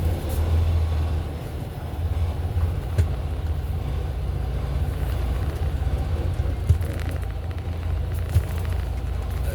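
Semi-truck diesel engine running low and steady, heard from inside the cab, with three short knocks along the way.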